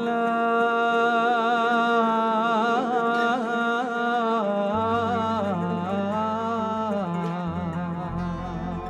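Live fusion band music in a Middle Eastern style: a long, ornamented melodic line wavering in pitch over a steady drone, with low bass notes coming in about halfway through.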